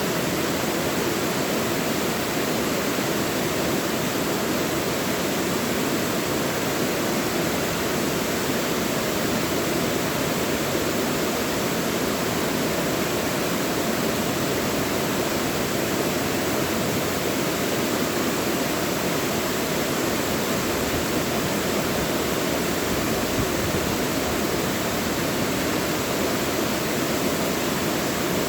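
Mountain valley stream rushing over rocks in a steady, even flow, with no breaks or changes.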